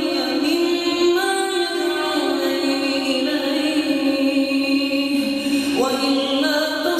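Melodic Quran recitation by a single voice, drawn out in long held notes in the tajweed style. The pitch steps up about a second in and rises again near the end.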